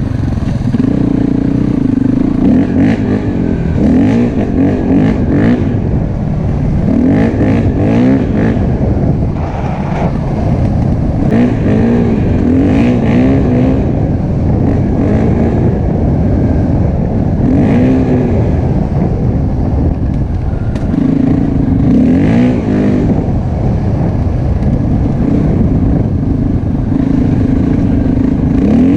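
Enduro motorcycle engine running under way, its pitch rising and falling again and again as the throttle is opened and closed, with steadier stretches in between.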